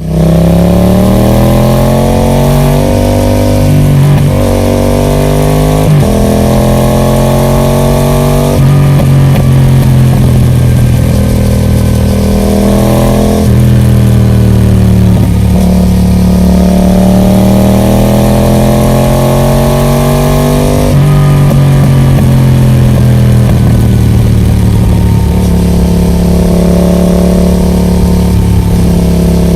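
Yamaha MT-07 parallel-twin engine through a Roadsitalia Special Carbon aftermarket exhaust, being ridden. The engine pitch rises and falls repeatedly, with sudden drops several times as it shifts gear, and it settles to a steadier note near the end.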